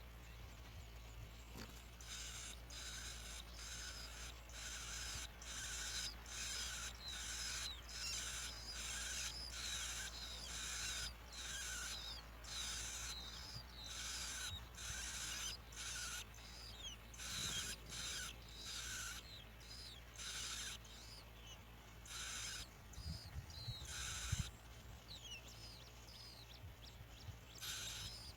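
Bar-winged prinias at the nest: a long run of short, harsh calls repeated about every half to one second, with thin high chirps between them and a steady low hum underneath.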